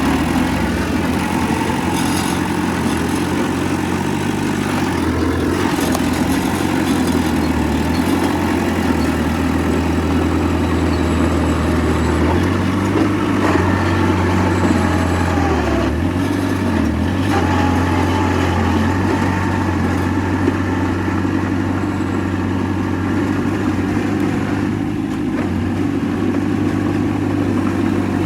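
Heavy diesel engine of earthmoving machinery running continuously, its pitch stepping up and down as the load changes, with a few faint knocks.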